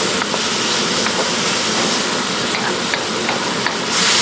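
Ham and vegetables sizzling steadily in a wok on high heat as their moisture cooks off, with a few light clicks of a utensil against the pan. The sizzle swells louder near the end.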